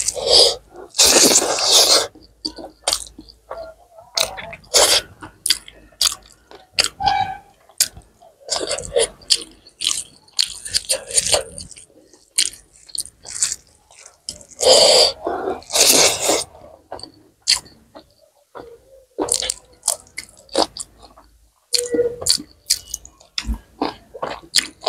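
Close-miked chewing and wet mouth clicks of a person eating rice with buffalo meat curry and dal by hand, with irregular smacks and a few longer louder bursts of mouth noise.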